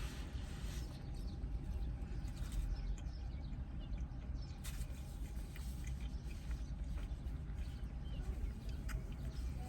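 Close-miked chewing and mouth sounds of someone eating a steak, egg and cheese bagel sandwich, with small wet clicks now and then, over a steady low hum.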